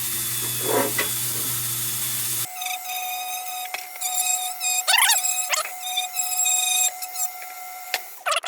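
A small electric power tool runs steadily while rust spots on a tin lantern are cleaned up, then cuts off sharply about two and a half seconds in. After it stops, a thin high whine with a few short chirps carries on.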